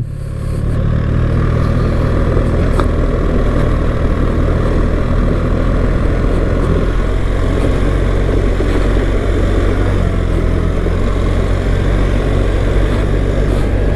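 BMW R 1300 GS boxer-twin engine running steadily under way, with a steady rush of noise over it.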